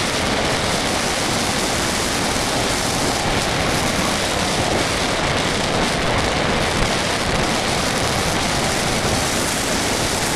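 Steady rushing airflow noise on the camera of an RC plane in flight, with no motor whine heard.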